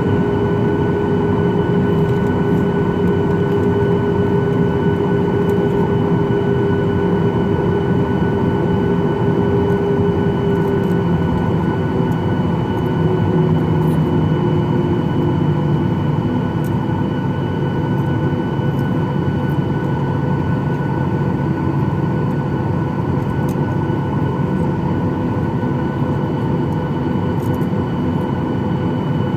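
Steady loud jet engine noise heard inside the cabin of a Boeing 737-800 with CFM56 turbofans, with a hum that slowly drops in pitch about halfway through.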